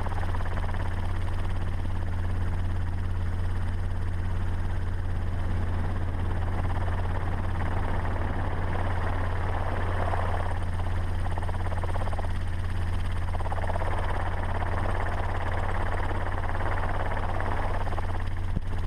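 Steady low engine drone under a rushing wind and road noise that swells and fades every couple of seconds, with a brief dropout near the end.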